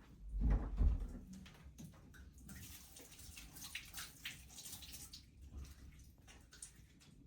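Water splashing and running, with a dull thump in the first second.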